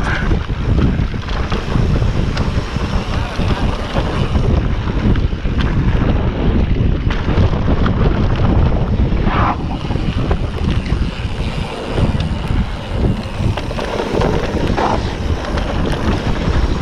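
Wind buffeting the microphone of a camera on a moving mountain bike, with steady rumble from the tyres and bike on the dirt trail. Two brief higher-pitched tones cut through, about nine and a half seconds in and again near fifteen seconds.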